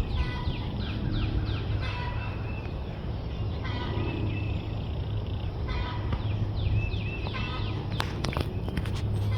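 A bird calling in repeated bursts of quick falling notes, a burst about every two seconds, over a steady low hum. A few sharp clicks near the end.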